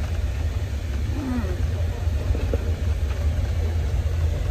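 Steady low rumble of a moving train, heard from inside the coach, with a brief faint voice about a second in.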